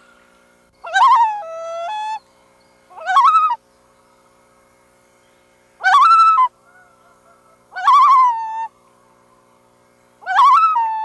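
Loon calling repeatedly: five short, loud, hooting calls, each rising in pitch and then holding, spaced about two to three seconds apart.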